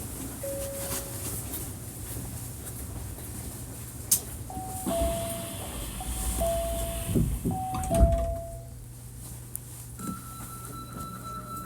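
Train door-closing chime on a Hankyu 1300 series car: a falling two-note chime sounded three times, with the doors thudding shut near the end of it, over a steady low hum. About ten seconds in, a steady high-pitched tone begins.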